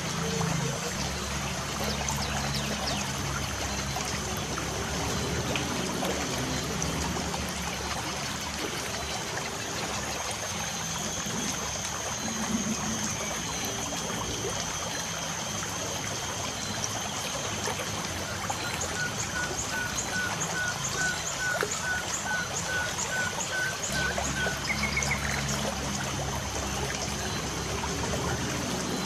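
Light rain falling with a steady trickle of water, and birds chirping. Past the middle, one bird gives a run of about a dozen quick, evenly spaced chirps, then a brief higher call.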